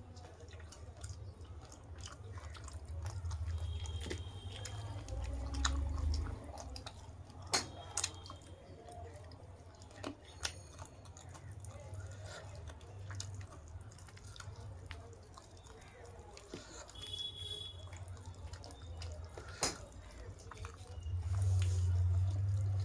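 A person eating: chewing and mouth sounds, with scattered sharp clicks and a few short ringing ticks, over a low rumble that swells twice.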